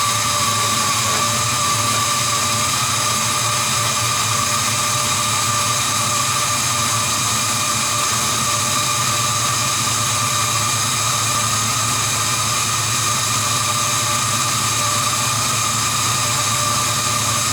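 5.3-litre LM7 V8 running steadily at a raised idle just after its first start through a new Magnaflow dual exhaust with X-pipe, tailpipes only temporarily clamped on. It sounds loud and even, with no revving.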